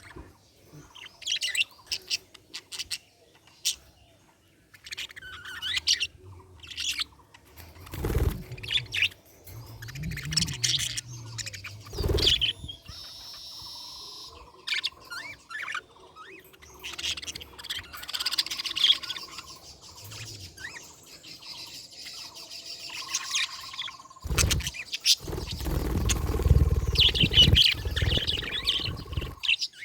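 Budgerigars chirping in rapid, irregular chatter of short high notes, with a few brief whistled tones. Several louder dull thuds come in around the middle and in a cluster near the end.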